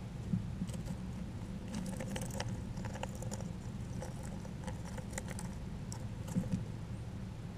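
Scattered small clicks and crunches of a small rodent nibbling and handling seed at a feeder, over a steady low hum.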